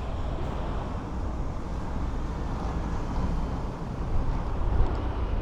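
Steady low outdoor rumble with no distinct events, like street ambience or wind on the microphone.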